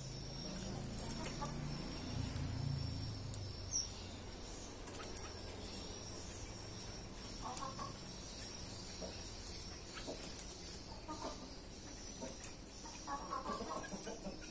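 Birds calling in short bursts a few times in the second half, over a steady high insect drone, with a low rumble in the first few seconds.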